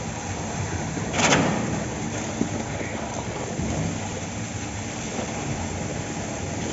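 Steady machinery and site noise from a concrete slab pour, with a short loud rush of noise about a second in.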